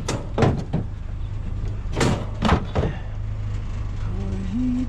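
Pieces of scrap metal knocking and clanking as they are handled, with a few sharp strikes, over a steady low engine hum. A brief low wavering tone comes near the end.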